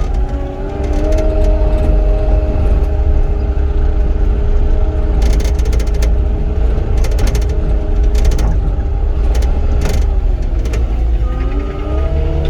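Cat 259D compact track loader's diesel engine revving up and running at high throttle as the machine travels, with scattered metallic clanks and rattles. Near the end the engine briefly drops and revs back up while the reversing alarm beeps.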